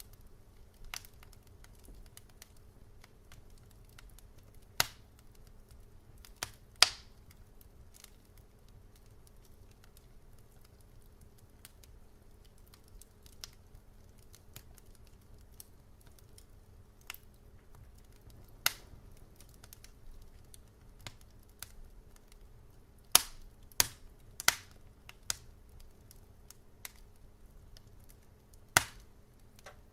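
Fireplace wood fire crackling: sharp pops and snaps at irregular intervals, several loud ones close together about three-quarters of the way through, over a faint steady low hum.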